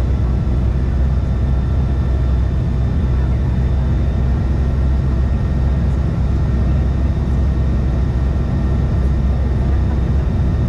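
Steady cabin noise inside a United CRJ-550 regional jet in flight: a deep, even rumble of airflow and the rear-mounted General Electric CF34 turbofans, with faint steady whining tones above it.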